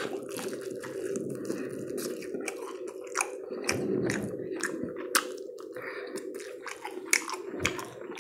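Close-miked mouth sounds of a person biting and chewing a fried chicken wing that is not crispy: a steady run of short smacking clicks.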